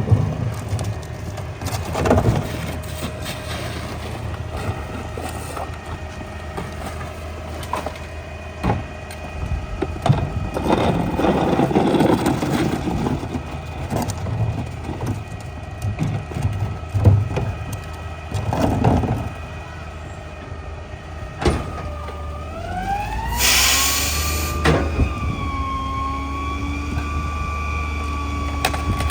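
Mack LEU garbage truck's diesel engine running steadily, with knocks and a crunching stretch as trash is thrown into the New Way rear loader's hopper. About 22 s in, the engine revs up and a rising whine settles into a steady tone as the hydraulic packer cycles, with a short loud hiss just after.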